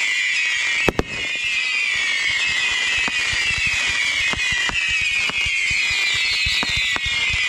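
Fireworks going off: a dense run of sharp pops and cracks, with one loud bang about a second in, over a constant high-pitched whistling.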